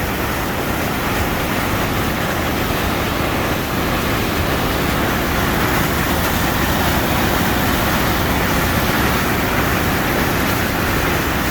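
A large mountain waterfall rushing steadily, a heavy flow of water making a loud, unbroken roar.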